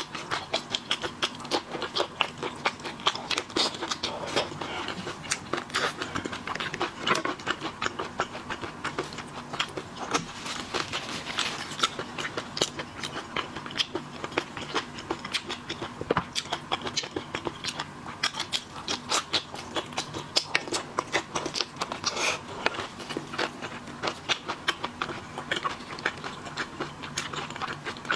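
Close-miked eating of seafood: a dense run of crackling, crunching and wet smacking as shells and flesh are bitten and chewed, with a faint steady hum underneath.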